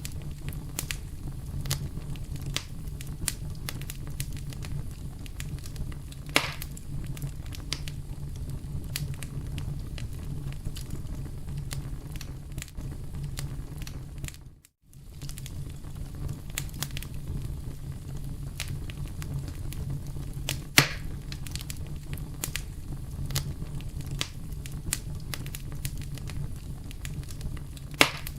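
Campfire burning with a steady low rumble and constant crackling, broken by a few louder pops. The sound cuts out for a moment about halfway through, then carries on.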